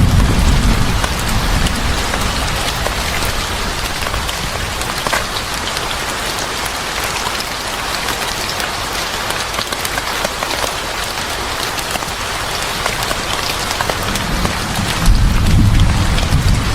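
Steady heavy rain pattering on a surface, a dense hiss of drop ticks. A low rumble fades out within the first second and comes back louder about fifteen seconds in.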